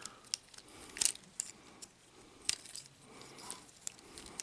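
Plastic parts of a Transformers Studio Series action figure clicking and tapping as they are handled and rotated. There are scattered sharp clicks, the loudest about a second in and about halfway through.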